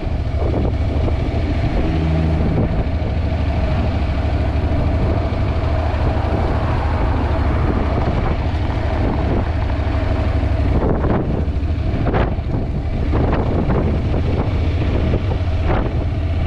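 Heavy wind buffeting on an action camera's microphone while riding a Honda NC750X motorcycle, a steady low rumble with gustier surges in the last few seconds.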